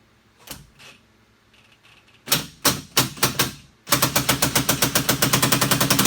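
Impact wrench tightening the door-handle nuts: a few short bursts of hammering, then a long run of rapid, even hammering from about four seconds in as the nuts are driven down.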